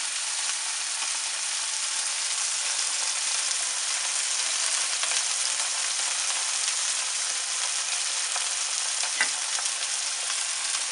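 Marinated chicken breasts frying in hot oil with onion and garlic, a steady sizzle as the meat sears in the pan. A single light knock about nine seconds in.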